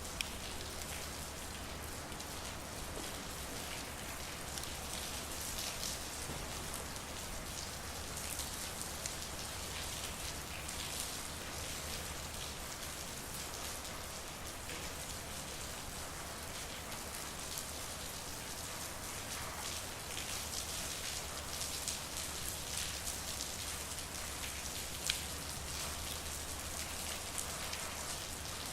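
Steady rain falling, with many single drops ticking close by over the steady hiss; one sharper drop stands out about 25 seconds in.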